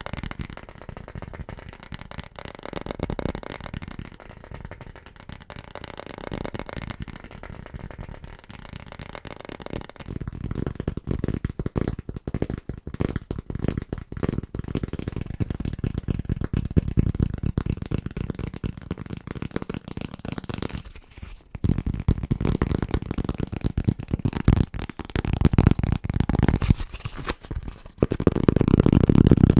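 Very fast, hard finger tapping on household objects, a dense stream of rapid taps. The sound changes several times as the tapped object changes, turning heavier and deeper from about a third of the way in.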